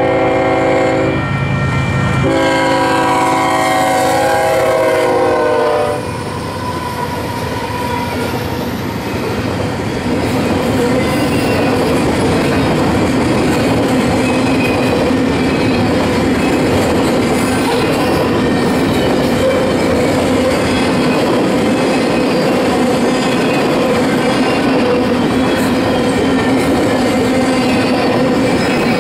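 Union Pacific freight train's locomotive horn sounds a chord twice. The short blast ends about a second in, and the longer one falls in pitch near its end as the lead GE C45AH passes. The locomotives then go by, followed by double-stack container cars rolling past with a steady rumble and clickety-clack of the wheels over the rail joints.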